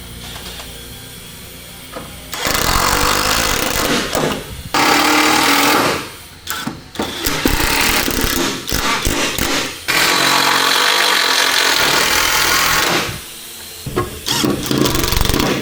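A handheld power tool running in several bursts of two to three seconds each, with short pauses between. The sound is a loud, rough, full-range noise.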